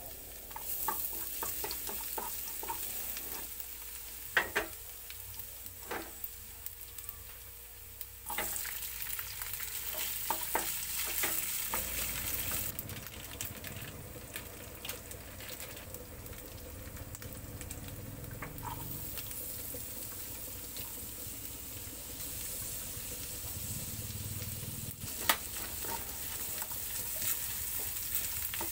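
Minced garlic sizzling in oil in a frying pan, with sharp taps and clicks in the first several seconds. About eight seconds in the sizzle grows louder as diced ingredients go into the pan and are stirred with a wooden spatula.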